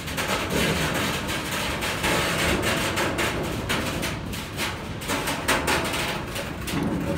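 Freight wagons carrying tank containers rolling past close by: a steady rumble of steel wheels on the rails, broken by repeated knocks and clanks.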